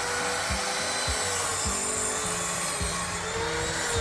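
A power tool running steadily under load, with a rasping, sawing noise and a faint wavering whine.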